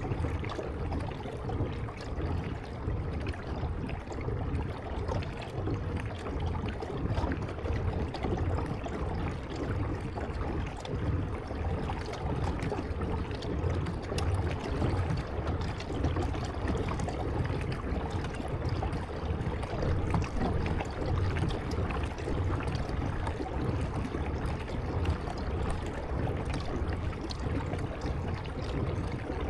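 Steady splashing and trickling of water around a kayak moving along a river.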